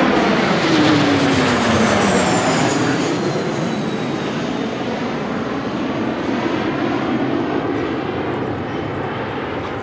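Kawasaki T-4 jet trainer flying past, its turbofan whine falling in pitch as it goes by, then the engine noise slowly fading.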